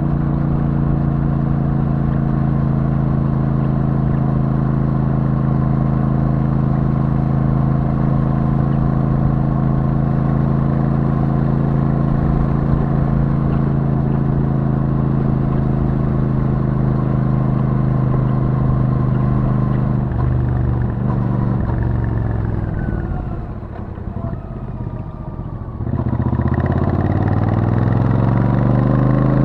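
Royal Enfield Super Meteor 650's parallel-twin engine through its stock exhaust, running at steady revs at cruise. About two-thirds of the way in the revs fall away and the sound drops for a couple of seconds, then near the end the engine pulls again with rising revs from low in the rev range.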